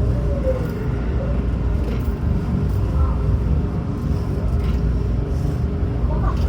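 Running noise inside a Hanshin Railway electric train car: a steady low rumble as the train travels along the line.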